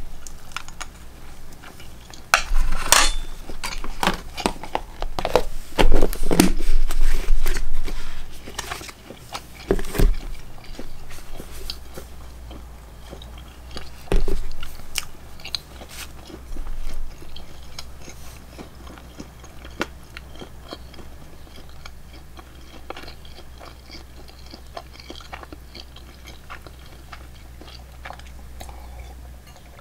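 A person chewing and biting food close to the microphone, loudest between about two and ten seconds in, then quieter scattered mouth clicks.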